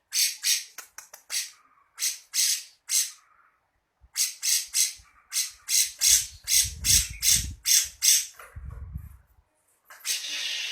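Grey-cheeked bulbul (cucak jenggot) giving its harsh, rasping 'besetan' calls in quick runs of several, a few a second, with short pauses between runs and one longer call near the end.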